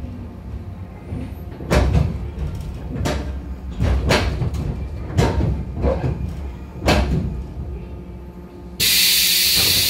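Interior of a 415 series electric train car rolling slowly, its wheels knocking sharply over rail joints or points about five times at uneven intervals over a low rumble. Near the end a sudden loud, steady hiss of air starts.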